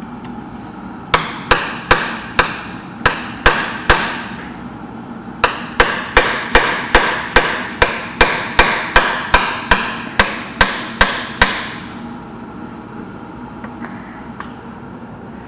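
Hammer blows, sharp ringing strikes about two and a half a second: seven in a row, a pause of about a second and a half, then about sixteen more.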